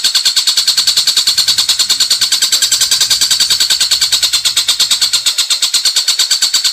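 Songbird recording of a fast, even trill: high-pitched notes repeated about ten times a second without a break.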